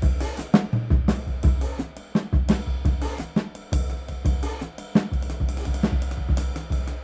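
Drum kit played in a steady groove, with bass drum, snare and cymbal strokes, on a kit featuring a PGB 19-inch crash cymbal weighing 1457 g. A crash cymbal is struck right at the end, leaving a wash of shimmer.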